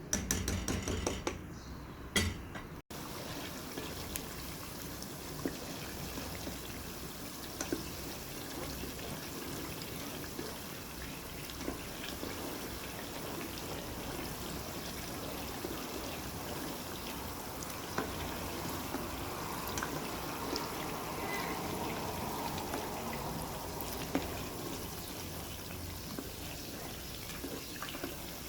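Oil in a pan bubbling steadily with scattered small crackles and pops as the chili garlic oil cooks. A louder stretch with clicks fills the first three seconds and cuts off abruptly.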